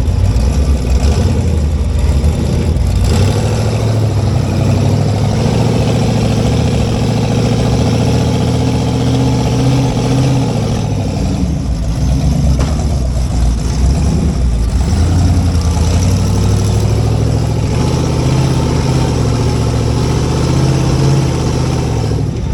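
An off-road rig's engine running steadily at low revs under load, its pitch rising and falling a little as the throttle is worked over rocks.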